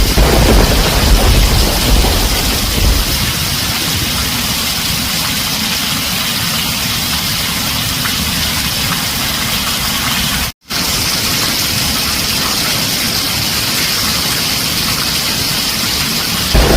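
Heavy rain falling on a tin roof, steady throughout, with a low thunder rumble dying away over the first few seconds and another rumble starting near the end. The whole sound cuts out for a split second about ten seconds in.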